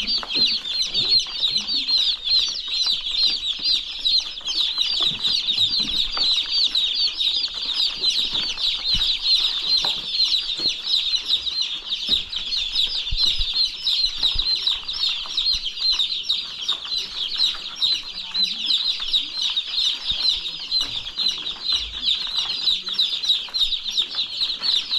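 A flock of chicks peeping continuously, many high cheeps overlapping without a break.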